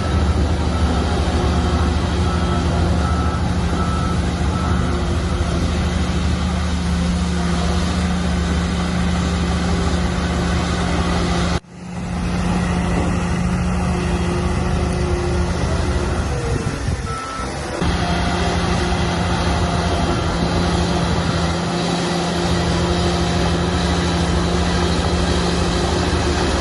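Shantui bulldozer's diesel engine running steadily with a deep, even drone. Its reversing alarm beeps during the first few seconds. The sound drops out sharply for a moment about halfway through.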